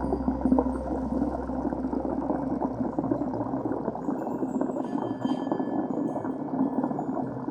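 Water bubbling and gurgling, heard underwater as a dense crackling rush, with a low steady hum that fades out about four seconds in.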